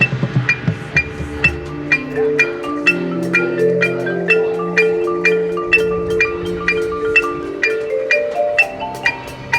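Marching band show music: mallet percussion strikes a steady run of ringing notes, about three a second, over sustained chords that swell in the middle and thin out near the end.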